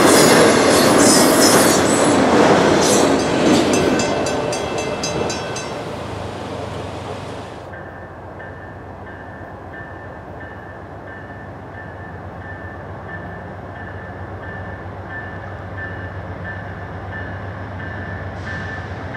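Autorack freight cars rolling past, wheels clattering with high squeals and fading away, until a sharp cut about eight seconds in. After that a bell dings in even strokes, a little under two a second, over a low rumble from a distant approaching passenger train.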